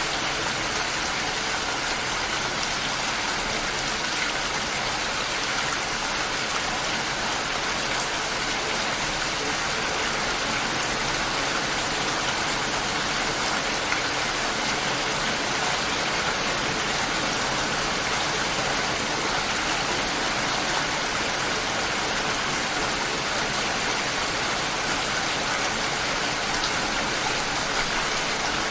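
Light, steady rain falling, an even hiss with no thunder or music.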